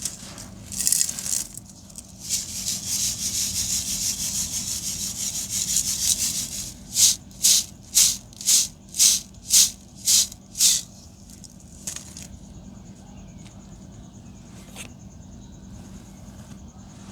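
Dry sand-cement and concrete crumbling: a dense gritty crackle, then about eight short crunches in a steady rhythm, roughly two a second, before it goes much quieter.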